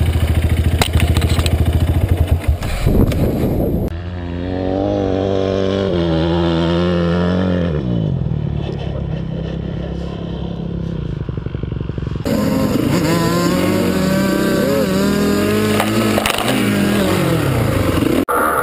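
Dirt bike engine running and revving, its pitch rising and falling. The sound changes abruptly about four seconds in and again about twelve seconds in, as separate riding clips follow one another.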